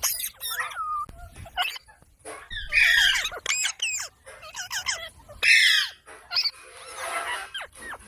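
Parrot squawking and chattering in a rapid string of short, high calls, loudest about three seconds and again about five and a half seconds in.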